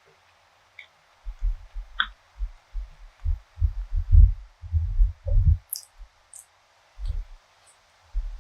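Close-miked chewing of food, a run of soft, low thuds about three a second for some four seconds, then a few more near the end, with a few small wet mouth clicks between.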